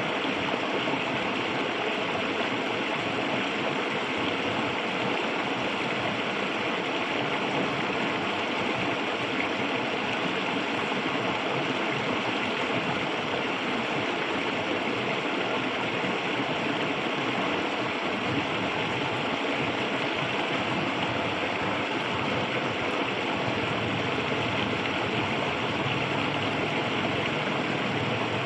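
Clear, shallow river water flowing and rushing steadily over rocks. A low hum joins in faintly near the end.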